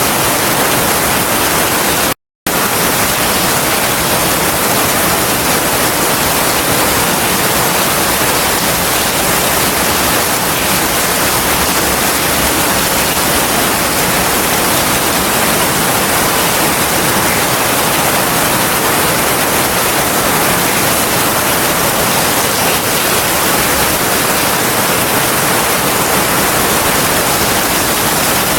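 Heavy rain falling as a steady, dense hiss, with no thunder heard; the sound cuts out completely for a split second about two seconds in.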